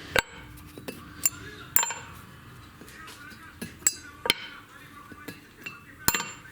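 Small metal parts and hand tools clinking and knocking while a bare cylinder head's valves are handled: several sharp, separate clinks spread unevenly through a few seconds.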